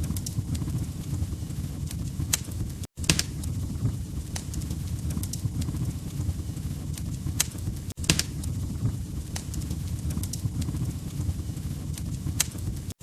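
AI-generated wood fire crackling in a fireplace: a steady low rumble with sharp pops and snaps every second or so. The sound cuts out for an instant about three and eight seconds in.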